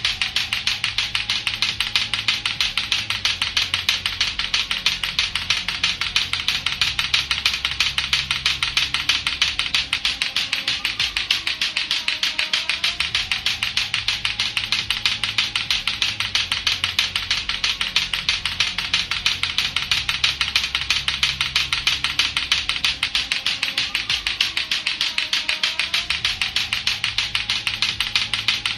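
Lato-lato clacker toy, its two hard plastic balls on a string knocking together in a rapid, steady clacking.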